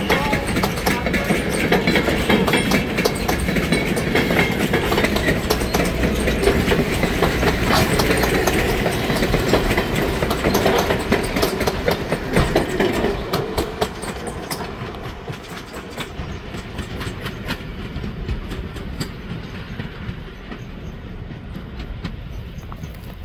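Vintage passenger coaches rolling past close by, their steel wheels clicking and clacking over the rail joints. The sound drops off about two-thirds of the way through and fades as the last car rolls away.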